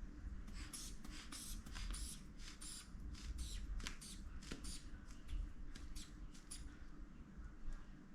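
Rubber bulb of a manual blood pressure cuff being squeezed over and over, about two to three short hissing puffs of air a second, as the cuff is pumped up for a reading.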